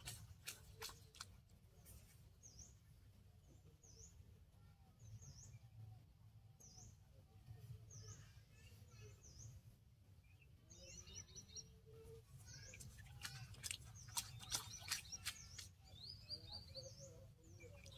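A bird calling with a short chirp repeated about once a second, over a steady low rumble. A cluster of sharp clicks comes about two-thirds of the way in.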